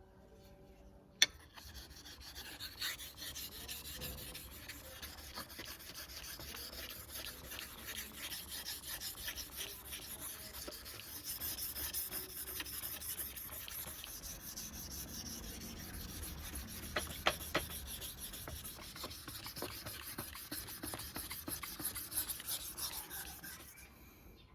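An old hunting knife's steel blade being sharpened, rubbed back and forth in continuous scraping strokes that stop near the end. A single sharp click about a second in.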